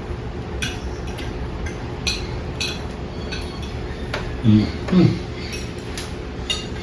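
Forks and spoons clinking against plates during a meal, several light scattered clinks, with a brief voice sound about four and a half seconds in over a steady low background hum.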